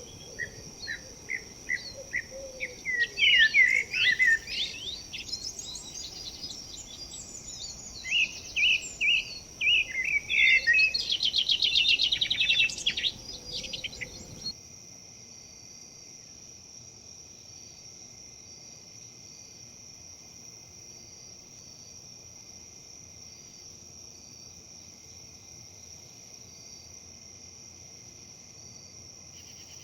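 Songbirds chirping and warbling over a steady, high insect trill, with a low background hiss. About halfway through, the birdsong and the hiss cut off abruptly, leaving only the steady insect trill.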